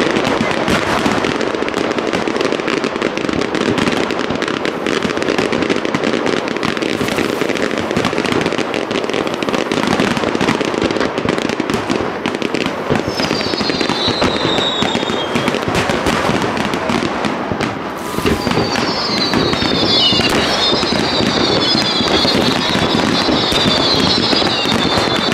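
Fireworks finale: a dense, continuous barrage of shell bursts and crackling with no pauses. From about halfway in, several high falling whistles are layered over the bangs.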